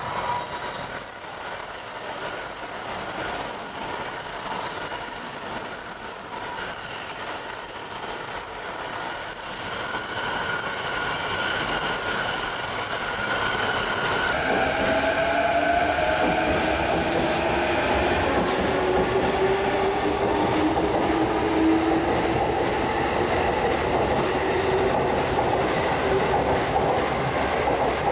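Electric train running on rails, with steady running noise and drawn-out whining tones that slowly shift in pitch. The sound changes abruptly about halfway through and is louder after that.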